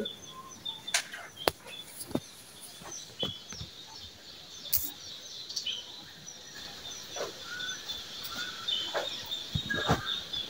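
Small birds chirping continually in quick, high, short notes, with a few sharp clicks and taps scattered through.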